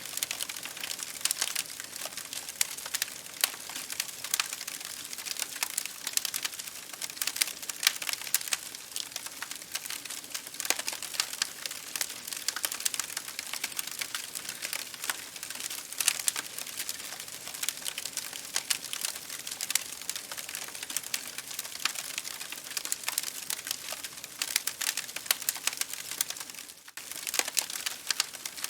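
Campfire crackling: a dense, irregular stream of sharp pops and snaps over a steady hiss, with a brief lull near the end.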